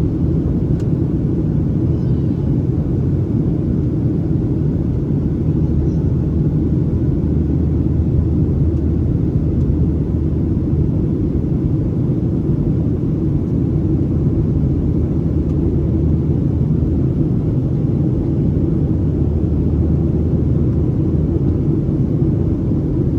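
Steady low cabin rumble inside a Boeing 737-800: the drone of its CFM56 turbofan engines and airflow, heard from a window seat over the wing.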